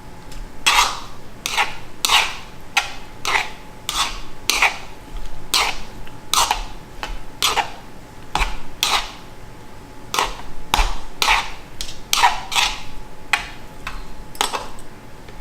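A utensil scraping and clattering against cookware over and over, about one to two strokes a second, as the noodles and mushrooms are stirred and mixed.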